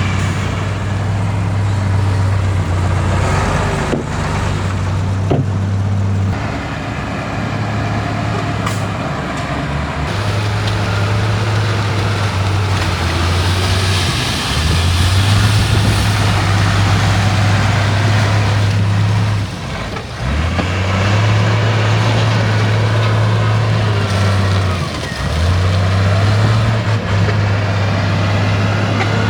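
Heavy diesel earthmoving machinery working. A deep engine drone swells and drops every few seconds as the load changes, and a hissing rush comes through around the middle.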